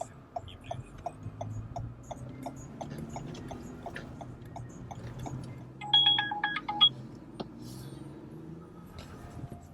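Car's turn-signal or hazard-light relay ticking steadily, about three clicks a second, over a low cabin hum. The ticking stops, and a short series of electronic beeps from a phone or in-car alert follows about six seconds in.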